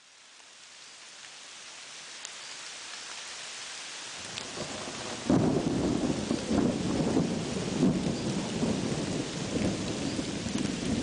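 Steady rain hiss fading in from silence and slowly growing louder. About halfway through, a rolling rumble of thunder begins suddenly and goes on with the rain.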